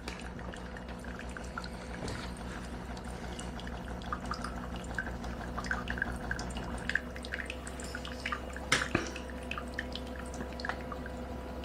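De'Longhi La Specialista espresso machine running hot water through the portafilter to warm it up. Water trickles and drips into the cup over a low machine hum, and the hum stops about seven seconds in while the dripping goes on. There is one sharp click near nine seconds.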